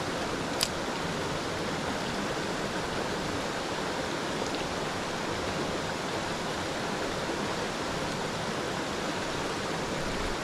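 Mountain stream water rushing steadily over rocks, with one short sharp click just after the start.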